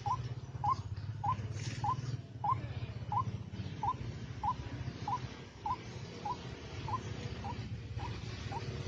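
White-breasted waterhen call: a monotonous series of short, slightly rising notes repeated evenly about every 0.6 seconds, over a steady low hum.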